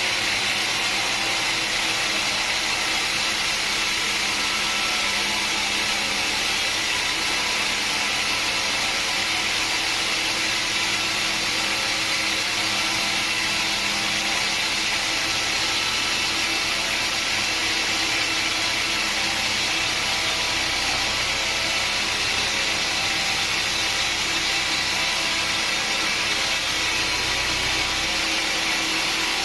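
Sawmill machinery running steadily: a loud, even, unbroken hiss-like noise with a faint steady hum beneath it.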